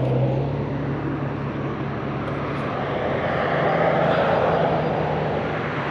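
A steady mechanical drone with a low hum, swelling about four seconds in and then easing off.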